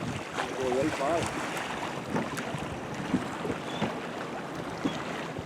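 Water slapping and splashing against a small boat's hull, with wind buffeting the microphone. About half a second to a second and a half in there is a brief wavering, voice-like call.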